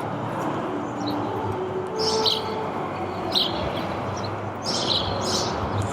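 Small birds chirping in short high bursts, four or five times, over a steady background hiss of outdoor noise.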